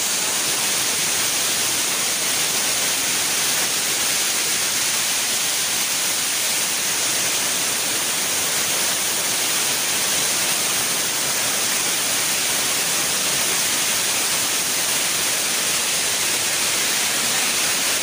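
Asik-Asik Falls: many streams of water pouring down a vine-covered cliff face and splashing onto rock, making a steady, unbroken hiss of falling water.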